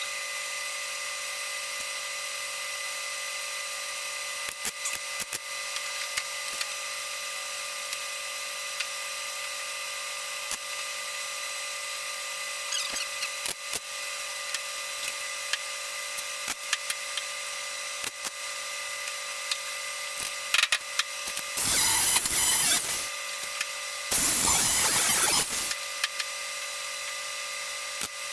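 Welding tacks on a thin sheet-metal patch panel in a car's rear quarter panel: two short bursts of welding crackle, each lasting about a second, about 22 and 24 seconds in. Before them there is only a steady hum with a few faint clicks.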